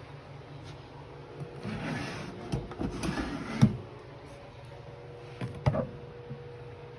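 Wooden nightstand drawer sliding in its runners with a scraping sound, shutting with a sharp knock, followed by a couple more knocks of wood and hardware.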